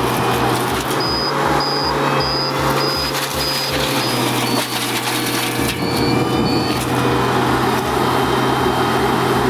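Skid steer with a forestry mulcher attachment working: the engine runs steadily under load while the mulcher grinds wood in a loud, dense noise. A high beeping of about two a second sounds through the first half and again briefly near the middle.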